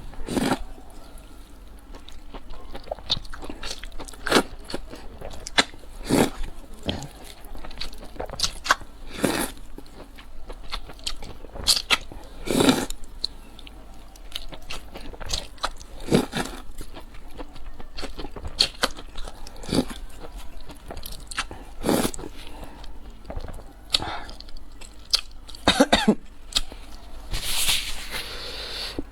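Close-miked eating sounds: a person chewing and biting into food, with sharp, irregular crunches and clicks, and a cough near the end.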